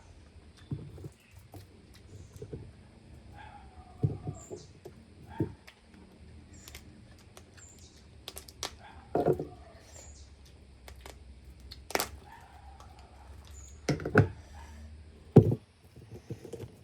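Mud crab being eaten: the hard shell cracking and crunching in sharp, irregular knocks, with chewing between them. A few short bird calls, like a chicken clucking, come through behind it.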